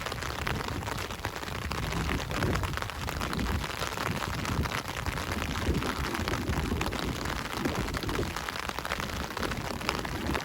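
Steady rain: a dense, even patter of raindrops over a low rumble.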